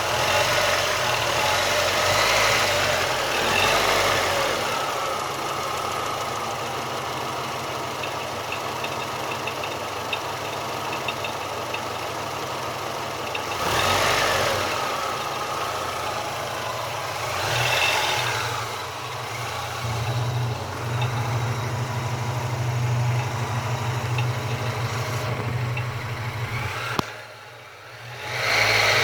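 Engine idling steadily with a regular light knock (стук), swelling in level a few times.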